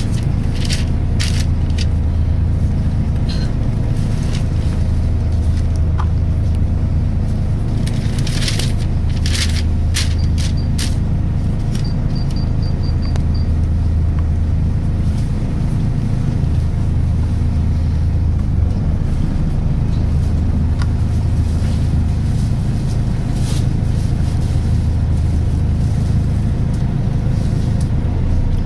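Interior of a Volvo B10BLE single-deck bus under way: the rear-mounted six-cylinder diesel and Voith automatic drivetrain keep up a steady low drone, with a faint steady whine above it for the first half or so, the gearbox whine this bus makes at times. Short rattles and clicks from the bodywork come several times early on, and a quick run of faint high ticks sounds about twelve seconds in.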